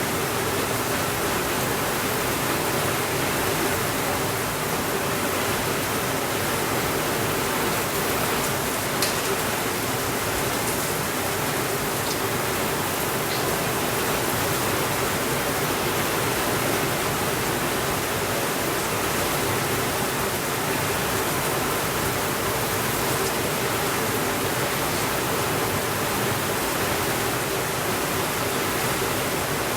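Steady rainfall, an even hiss, with a few faint ticks about nine and twelve seconds in.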